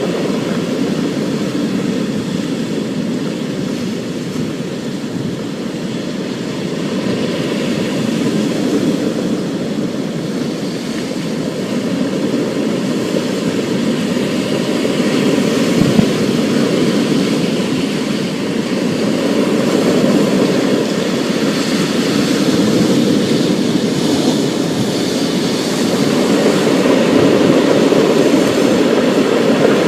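Thunderstorm: thunder rumbling continuously, swelling and easing and growing louder toward the end, over a fainter steady hiss. A single short sharp crack comes about 16 seconds in.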